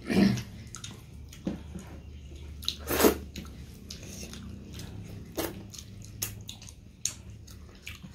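Close-miked wet chewing and lip-smacking of two people eating dhindo with chicken gizzard and liver by hand. There is a short voiced sound right at the start, a loud smack or slurp about three seconds in, and scattered sharper smacks after it, over a low steady hum.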